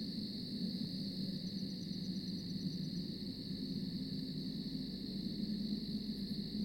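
Steady night ambience: an unbroken high insect buzz over a low rumbling hum, with a brief faint row of quick ticks between about one and a half and three seconds in.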